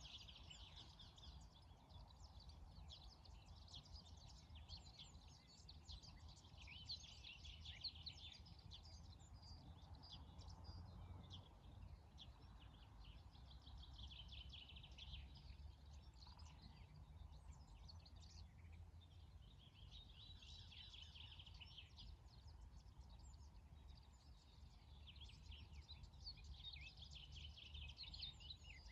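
Faint birdsong: several birds chirping and trilling in bursts that come every few seconds, over a low steady rumble.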